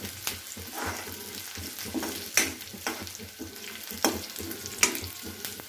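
Sliced onions, green chillies and curry leaves sizzling as they fry in oil in a steel kadai, stirred with a metal spatula. Several sharp scrapes and knocks ring out as the spatula hits the pan.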